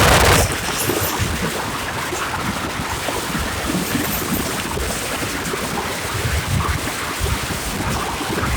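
Strong wind and surf: a steady rushing wash of breaking waves, with gusts buffeting the microphone in irregular low rumbles. A louder rush drops away about half a second in.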